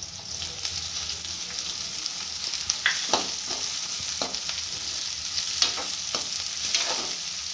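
Chopped onion frying in hot oil with bottle gourd pieces in a metal kadhai, a steady sizzling hiss that picks up as the onion goes in. A steel spoon scrapes and clinks against the pan as the mixture is stirred, several sharp strokes from about the middle onward.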